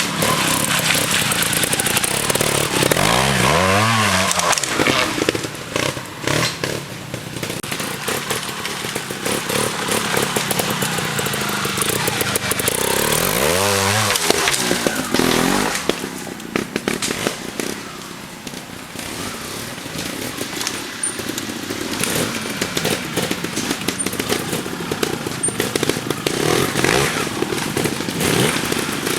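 Trials motorbike engine running, with the revs climbing and falling away twice, about four seconds in and again near the middle.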